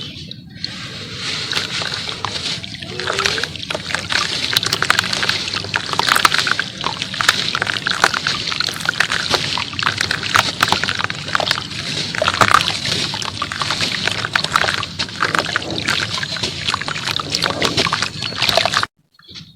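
Pure cement dipped in water and crumbled: a dense run of wet crackling and sloshing, with a brief break near the end.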